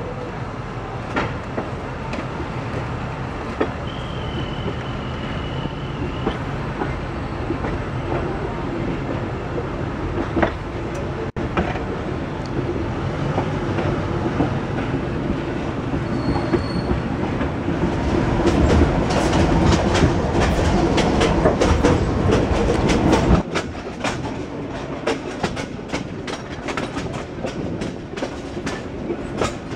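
Passenger train carriage rolling along the rails, with a steady low rumble and wheels clicking over the rail joints. About two-thirds of the way in, the clicking grows denser and louder. A brief high squeal sounds a few seconds in.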